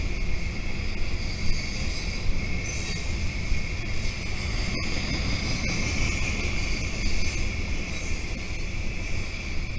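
Freight train hopper cars rolling past on the rails: a steady rumble of steel wheels on track, with a steady high-pitched whine over it.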